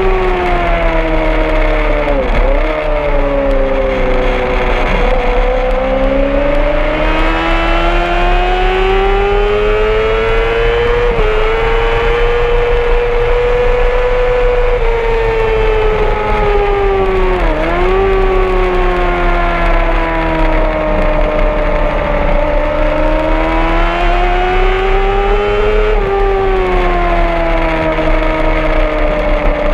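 Honda CBR600RR inline-four sport-bike engine at high revs on track, heard from on the bike, its pitch rising and falling with the throttle through the corners, with two quick sharp drops in pitch.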